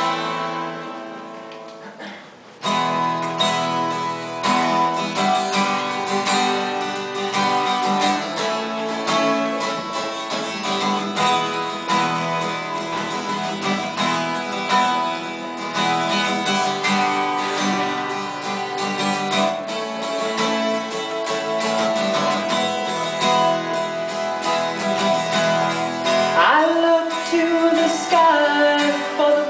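Guitar playing a song's introduction. A single chord rings and fades, then about two and a half seconds in a steady accompaniment begins. A voice comes in near the end.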